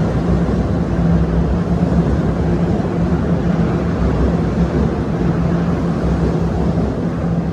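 TTC subway train running, a steady loud rumble with a low motor hum that fades in and out.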